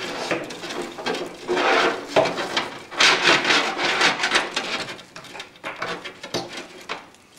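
Scraping, rubbing and clicking of power cables and plastic parts being handled and tucked inside a PC case, heaviest about two and three to four seconds in, then lighter ticks and taps.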